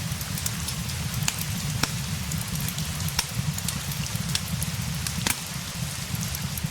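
Steady rain falling, with a low rumble underneath and scattered sharp crackles and clicks throughout.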